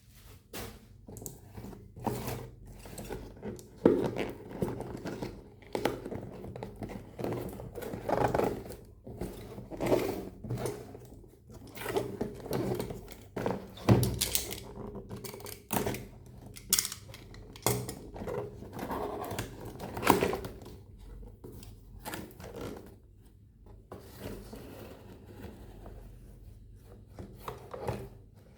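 Toy packaging and a plastic toy being handled: irregular knocks, taps and crinkles of plastic and cardboard, with no motor running.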